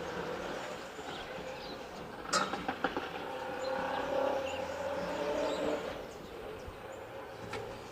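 Outdoor ambience with a distant vehicle's low drone that swells through the middle and fades near the end. A sharp click comes about two and a half seconds in, and there are faint bird chirps.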